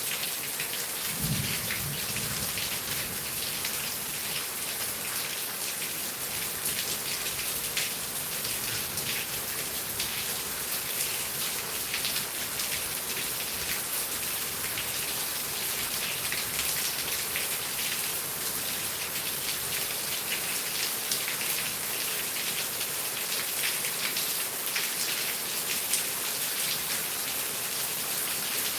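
Heavy rain falling steadily, a dense hiss full of small drop patters. About a second in, a brief low rumble sounds under it.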